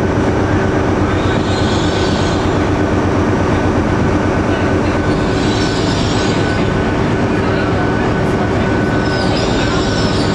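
Diesel trains at a station: a steady diesel engine drone with held low tones as a train moves slowly along a neighbouring track. A high hiss swells and fades three times, about four seconds apart.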